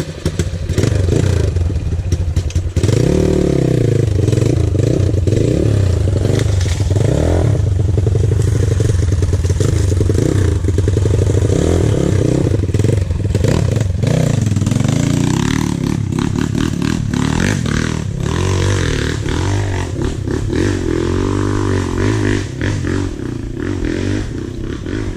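Dirt bike engine running hard, its pitch rising and falling again and again as the throttle is worked, with rattling clatter over it.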